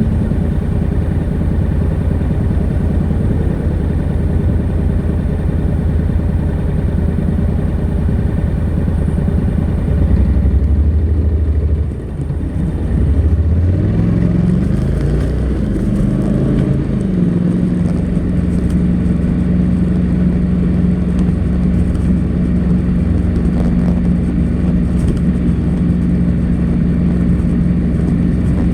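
Honda NC700X's 670 cc parallel-twin engine running on its stock exhaust at steady cruising revs. About twelve seconds in it drops off briefly, then accelerates, with the pitch rising in a few steps before settling at a steady higher drone.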